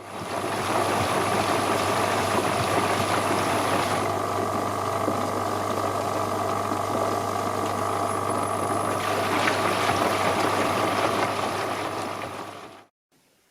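AEG Lavamat 9000-series washing machine running mid-wash with a steady rumbling growl from its failing recirculation pump, the fault that means the pump needs replacing. A hiss over the growl thins out about four seconds in and comes back around nine seconds, and the whole sound cuts off shortly before the end.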